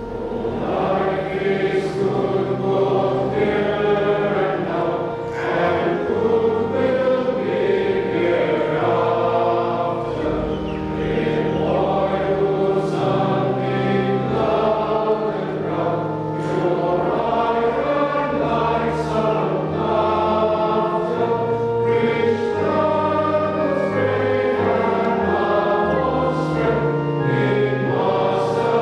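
Congregation singing a hymn in unison with organ accompaniment, the organ holding long low notes beneath the voices.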